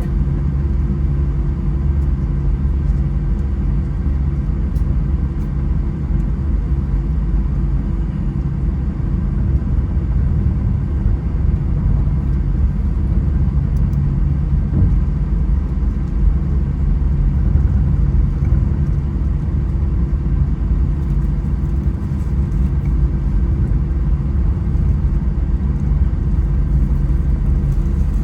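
Airbus A320 cabin noise: a steady low rumble with a few faint steady hums over it, the engines running at low power with no takeoff spool-up.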